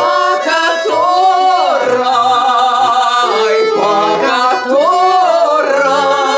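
A woman singing a slow Russian folk song in long, drawn-out notes with vibrato, accompanied by an accordion holding steady chords.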